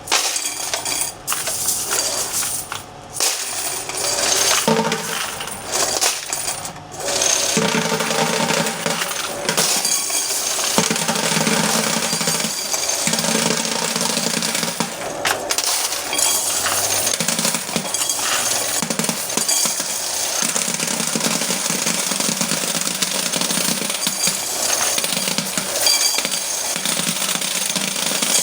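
Quarters clattering into a coin counting machine, then the machine running steadily from about seven seconds in, with coins rattling through it.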